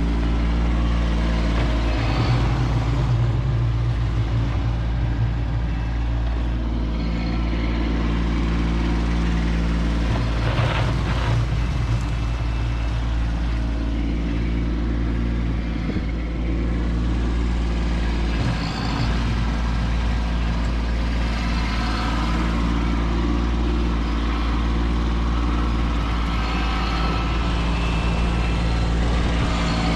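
Kubota B2601 compact tractor's three-cylinder diesel engine running steadily under load while clearing snow with its front blade.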